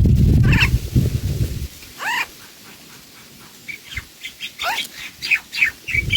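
Small bird chirping: a few sweeping calls, then a run of short, quick chirps in the second half. A low rumbling noise fills the first second and a half.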